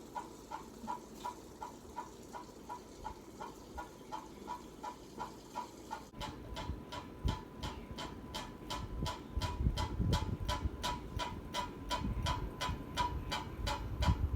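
Hunter Westminster ceiling fan running on high with a regular ticking about three times a second, in step with the spinning blades. About six seconds in the ticks turn sharper and brighter, and a low rumble builds over the second half.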